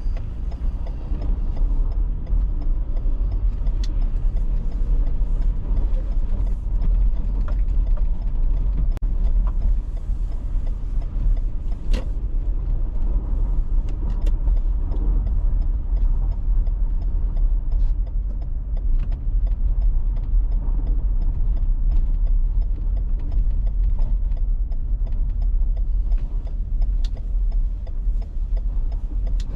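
Car driving on an icy road: a steady low rumble of road and engine noise, with scattered light clicks.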